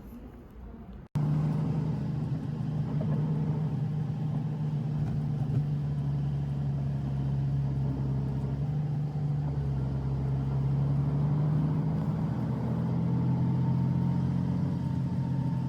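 Steady low drone of a running road vehicle, starting abruptly about a second in.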